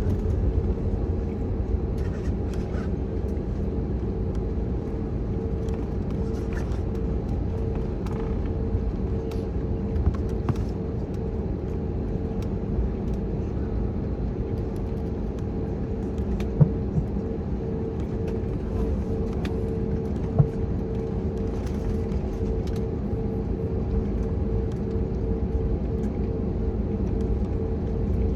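Cabin noise of an Airbus A321neo taxiing after landing: a steady low rumble from the idling engines and the rolling airframe, with a steady hum running through it. Two brief knocks come a little past halfway, a few seconds apart.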